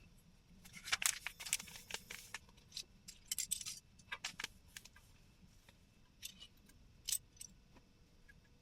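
Small hard objects clinking and jingling as they are handled: two bursts of quick light clicks in the first half, then a few single clicks.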